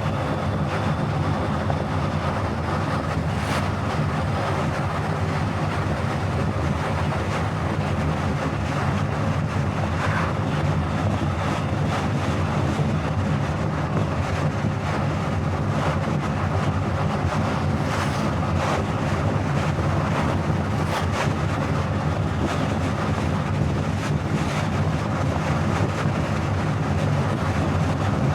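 Car driving steadily at highway speed: a constant engine hum under tyre and wind noise.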